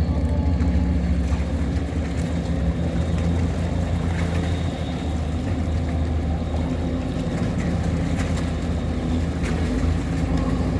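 Tugboat engine running steadily under way, a low, even drone.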